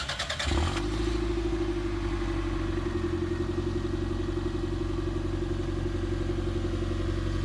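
1993 Toyota MR2 Turbo's turbocharged four-cylinder engine, on its stock exhaust, being started: the starter cranks briefly and the engine catches about half a second in, then settles into a steady idle.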